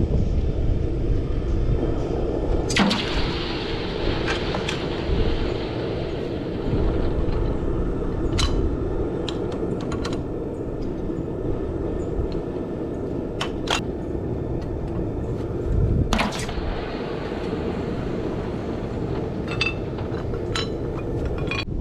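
Wind buffeting the microphone over a steady low rumble, gusting stronger twice, with a few sharp metallic clinks scattered through.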